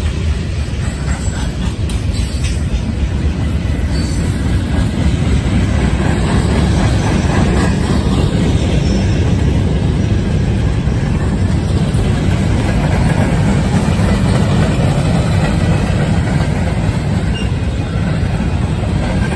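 Freight train's cars rolling past: a steady, loud rumble of steel wheels on the rails.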